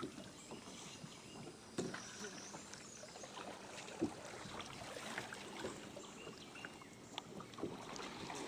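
Kayak paddling on a calm river: water swishing and dripping off the paddle, with a couple of sharp knocks about two and four seconds in.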